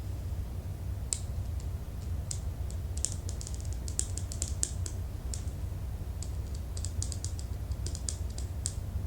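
Typing on a computer keyboard: irregular runs of key clicks that come in bursts with short pauses between, over a steady low hum.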